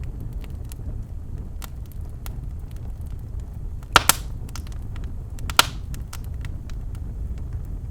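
Birch logs burning in a fireplace: a steady low rumble of flame with light scattered crackles, and sharp loud pops twice in quick succession about four seconds in and once more a second and a half later.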